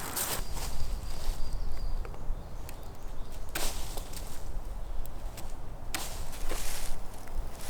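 A few separate footsteps on the forest floor, spaced irregularly a second or more apart, over a low steady rumble.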